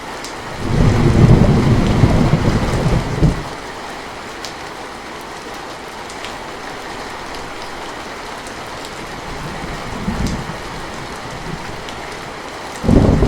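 Steady rain falling, with rolls of thunder: a loud low rumble begins about half a second in and lasts some three seconds, a weaker short rumble comes near ten seconds, and another loud one starts just before the end.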